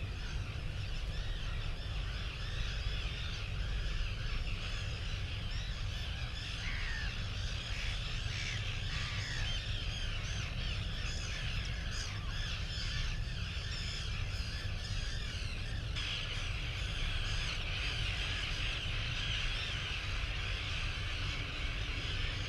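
Many birds calling over one another in a continuous chorus of short chirps and harsh caws, with a steady low rumble underneath. The character of the calls changes about 16 seconds in.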